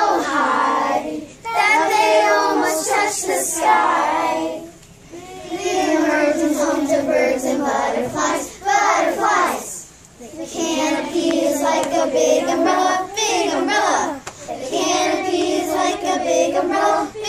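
A group of young children singing a song together, in phrases of a few seconds with short breaths between them.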